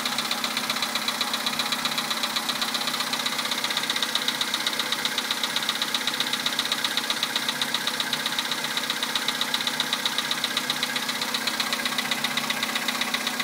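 Volkswagen Polo sedan's 1.6-litre four-cylinder petrol engine idling with a rapid, even knocking that goes on unchanged. The owner calls it an unpleasant knock that a change to Liqui Moly Molygen 5W-40 oil has not cured.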